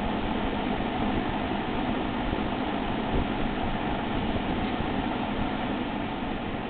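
1971 Lakewood P-23 Country Air 20-inch box fan running steadily on its high speed, a constant rush of air with a low motor hum.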